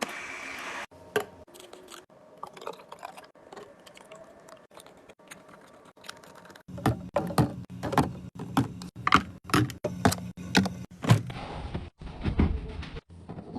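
Many short clicks, taps and clunks of containers and food packages being handled and set down while a refrigerator is restocked, in several short clips joined by cuts.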